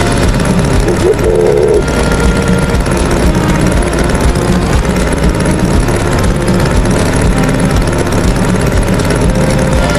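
A tractor engine running steadily with a dense, low rumble, as a cartoon sound effect.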